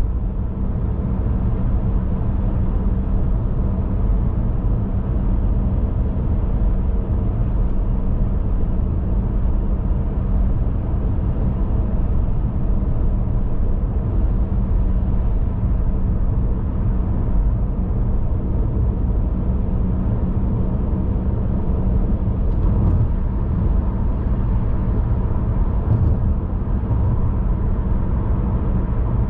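A car driving at an even pace: a steady low rumble of road and engine noise that does not rise or fall.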